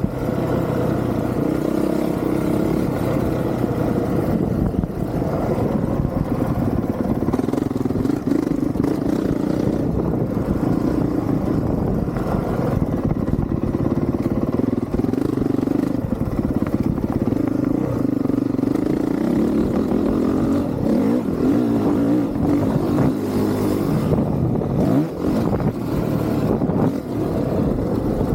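Honda CRF450R's single-cylinder four-stroke engine being ridden hard, its pitch rising and falling again and again as the throttle opens and closes.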